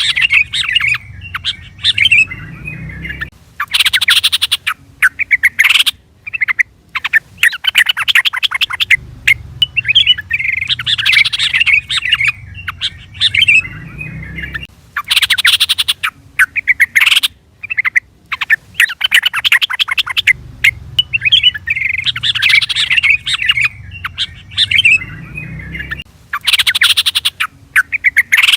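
Yellow-vented bulbul calling: phrases of chirps alternating with bursts of rapid chattering notes. The same sequence repeats about every 11 seconds, as a looped recording.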